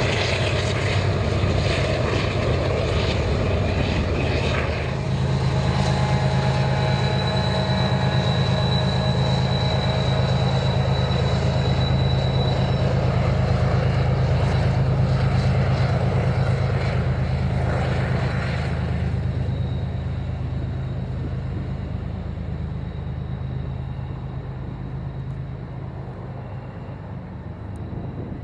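Diesel locomotives of a passing freight train, their engines giving a steady low drone that fades away over the last several seconds, with a thin high squeal partway through.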